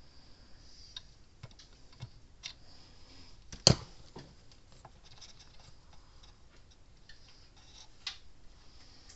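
Scattered small clicks and taps of tools and parts being handled on a workbench during an electronics repair, with one sharp, loud click a little over a third of the way in.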